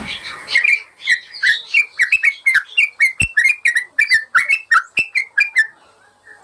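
Yellow-vented bulbul (trucukan) singing: a fast run of short chirping notes, about four a second, stopping shortly before the end, with a few sharp clicks among them.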